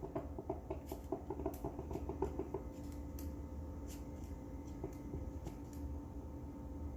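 Drip coffee maker sputtering and gurgling faintly in rapid short pulses as it finishes brewing. The pulses stop a little over two seconds in, leaving a faint steady hum and a few light clicks.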